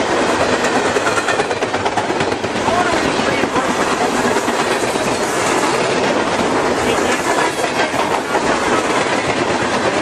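A BNSF freight train of tank cars and covered hoppers rolling past close at speed: a steady, loud rumble of steel wheels on rail, with rapid clicking running through it.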